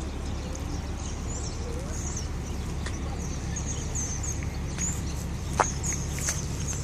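Small birds chirping: repeated short, high chirps over a steady low rumble. A few sharp clicks come near the end.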